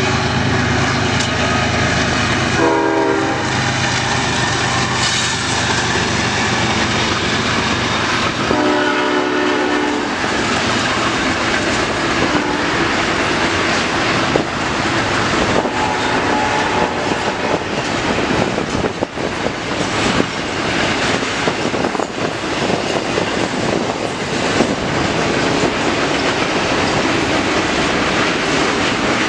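CN intermodal freight train passing close by: the diesel locomotive's air horn sounds several times, two long blasts in the first ten seconds and fainter shorter ones later, over the steady running of the locomotive engines and then the rumble and clatter of the cars rolling past.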